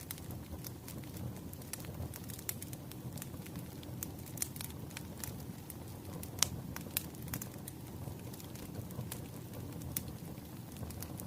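Wood fire crackling: irregular sharp pops and snaps over a steady low rumble, the loudest pop about six and a half seconds in.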